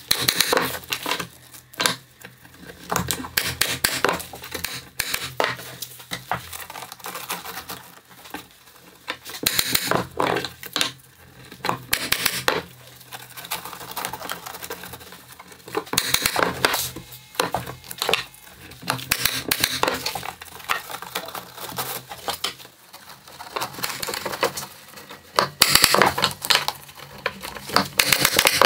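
Irregular clattering and knocking of hand work on pieces in a woodworking shop, coming in spells of a second or two, over a faint steady low hum.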